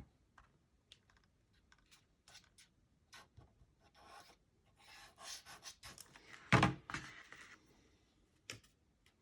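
Paper and cardstock pieces being handled and laid in place on a tabletop: scattered light taps and soft rustling, with one louder thump about six and a half seconds in.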